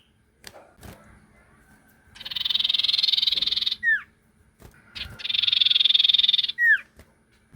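Sirtu bird lure call: two long rasping, buzzing trills, each ending in a short falling whistle.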